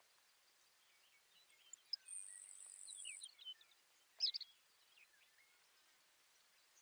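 Baird's sparrow singing faintly: a thin high trill with a scatter of short chirps lasting about a second, then one sharp louder note about a second later, over a soft steady hiss.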